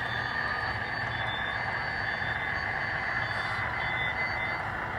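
Model diesel locomotive's onboard sound decoder playing a steady diesel engine sound through its small speaker as the model runs. Faint short high tones come and go over it.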